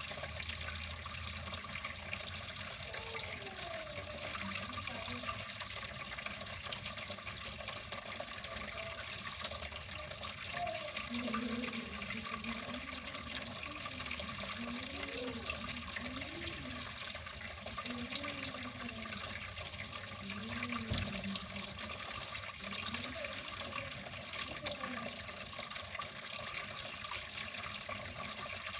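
Water flowing steadily, like a running tap, as an even, unbroken rush with faint wavering tones underneath.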